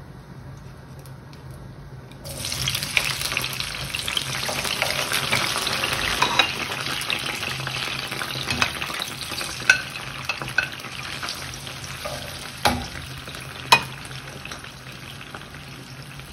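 Halved cherry tomatoes tipped into hot olive oil in a frying pan start sizzling about two seconds in, a dense spitting crackle that slowly settles as they fry with the garlic and olives. A few sharp clicks come in the second half.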